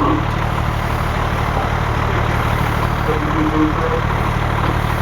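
Fire engine's engine running steadily at idle, a close, even low rumble.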